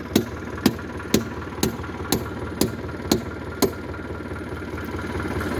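Eight sharp, evenly spaced hammer blows, about two a second, driving at a bent nail in the tractor's wooden tow beam; they stop a little under four seconds in. Under them the tractor engine idles steadily.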